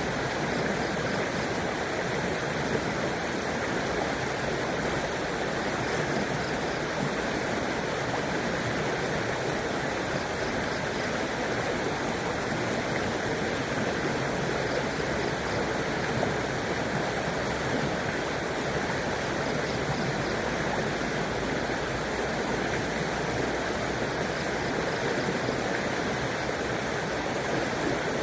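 A river running over rocks: a steady, unbroken rush and babble of flowing water.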